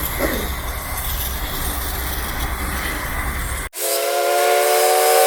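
A steady hiss with a low hum. About three and a half seconds in it cuts off sharply, and a train whistle comes in loud: one held chord of several tones.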